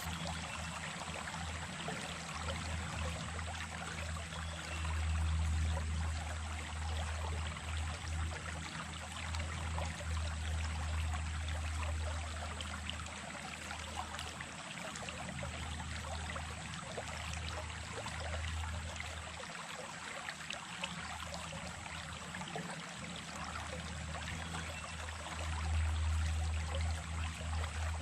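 Brook of running water flowing steadily, a continuous rushing and trickling with an uneven low rumble underneath that swells and dips.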